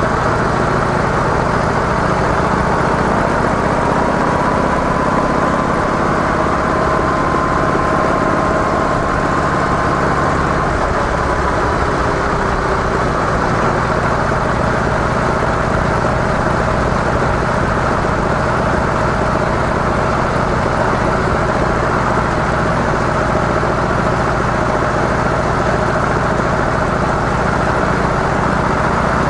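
Harley-Davidson CVO Softail Deluxe's V-twin engine, breathing through its stock mufflers, running at a steady speed, with an even rushing noise over it. The engine note shifts slightly about eleven seconds in.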